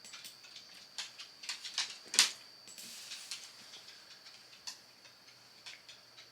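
Irregular light clicks and taps, the loudest about two seconds in, over a faint steady high whine.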